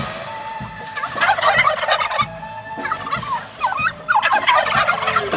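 Domestic turkeys gobbling in several rapid bouts of quick, wavering, falling calls.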